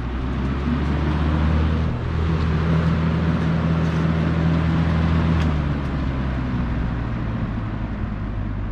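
Lasko box fan running on its high setting: a steady motor hum under an even rush of air from the blade, its slow-starting motor freshly oiled. The sound eases somewhat in the second half.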